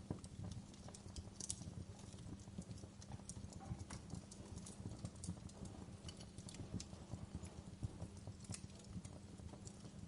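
Wood fire crackling in a fireplace: a dense, irregular low crackle with scattered sharp pops and snaps.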